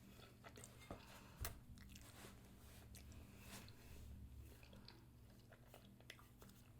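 Faint chewing of food close to the microphone: soft crunches and mouth clicks, with one sharper crunch about a second and a half in.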